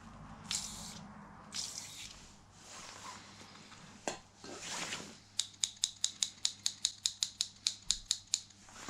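Several short hissing sprays of aerosol contact cleaner into a motorcycle handlebar switch, then a fast run of about twenty sharp clicks, six or seven a second, as the pass-light switch is flicked repeatedly to work the cleaner into the contacts.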